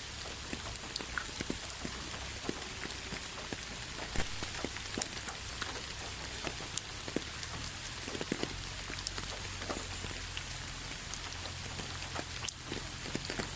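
Steady rain with individual raindrops ticking and pattering irregularly on a surface, over a soft hiss of falling rain and a faint low rumble.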